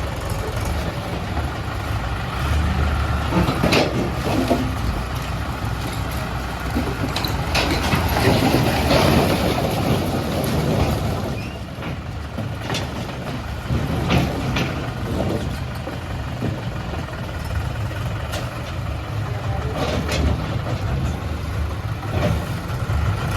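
Mahindra Arjun 555 tractor's diesel engine running steadily, with a few sharp knocks or clanks scattered throughout.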